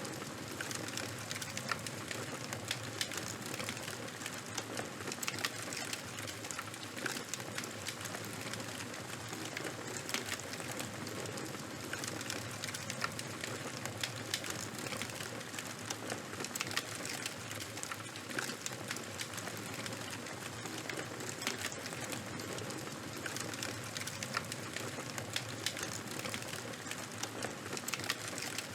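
Charcoal and wood burning in a bonfire: a steady hiss of the flames with dense, rapid crackling and small pops throughout.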